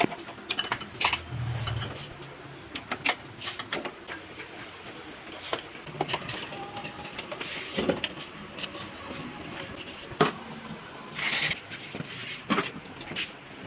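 Hand tools and small metal parts clinking and knocking irregularly against each other and the metal of a motorcycle engine being taken apart.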